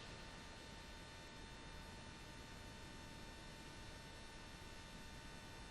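Near silence: a faint steady electrical hum with a thin high tone, the recording's own noise floor.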